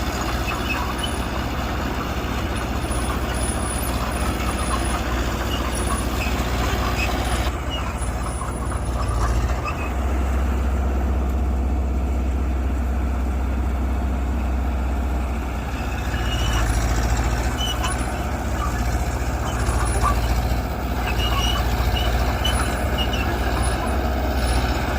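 Diesel engine of heavy earthmoving machinery running continuously, its low hum changing in tone a few times.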